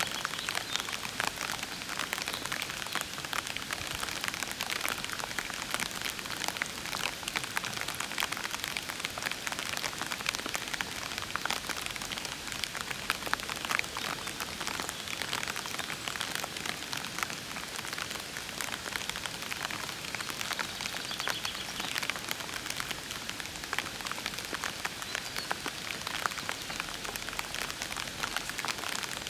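Steady, gentle rain falling in a park, a dense patter of individual drops on leaves and puddles.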